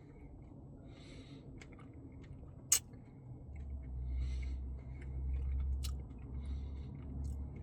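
A person chewing a mouthful of cookie dough Blizzard close to the microphone, with soft wet mouth sounds and a few sharp clicks. A low rumble comes in about halfway.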